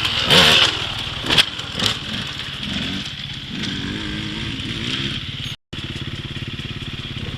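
Dirt bike engine running, with a few sharp knocks in the first two seconds. The sound cuts out briefly about two-thirds through, then the engine runs steadily at low speed.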